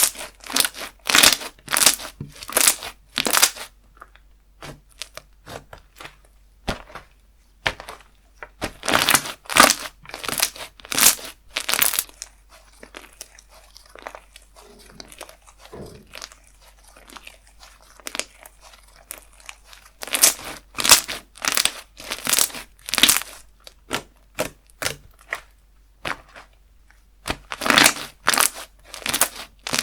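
Slime being squeezed, poked and stretched by hand, making quick wet clicks and crackles in runs of several strokes about twice a second, four times over, with softer crackling between.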